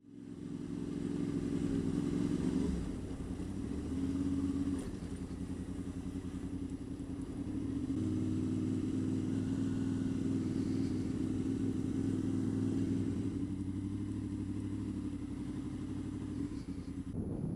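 Honda VFR800 VTEC's V4 engine running under way, a steady low engine note whose pitch shifts a few times as the revs change.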